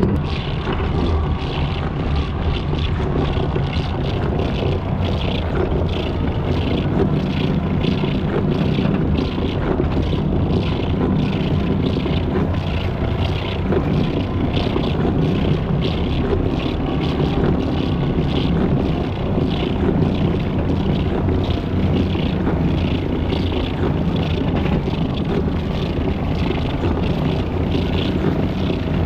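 Mini pickup truck on Mattracks rubber tracks driving: a steady engine drone with a regular ticking about twice a second over it.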